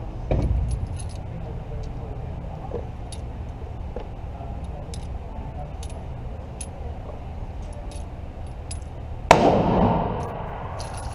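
A single pistol shot about nine seconds in, sudden and loud, echoing away over about a second. A duller, quieter bang comes just after the start, and light metallic clicks are heard throughout.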